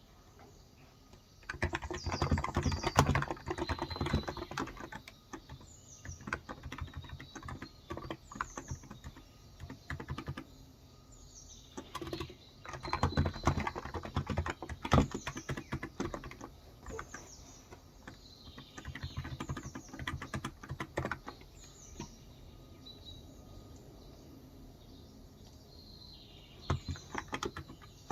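Typing in bursts with short pauses on a Cox Endeavour electrostatic capacitive tenkeyless keyboard with 35 g switches. Birds chirp in the background, short falling chirps repeated every second or so.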